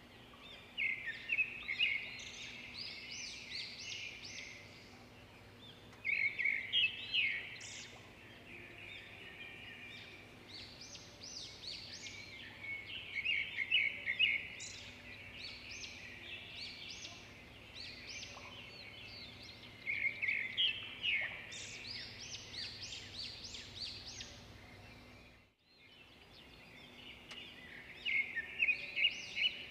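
Small birds chirping and singing in recurring bursts of quick high notes every several seconds, over a faint steady hum; the sound cuts out for a moment about three-quarters of the way through.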